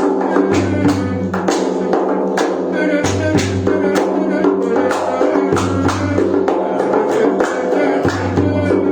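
Instrumental Egyptian sha'bi band music with a steady drum beat over sustained melody notes and a pulsing bass line; no singing.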